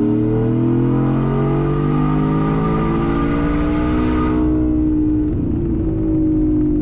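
Whipple-supercharged 5.0 V8 of a 2022 Ford F-150, with a cat-delete Y-pipe and a straight-through Magnaflow muffler, under hard acceleration. The exhaust note climbs slowly in pitch for about four seconds, then the engine eases off to a steadier drone.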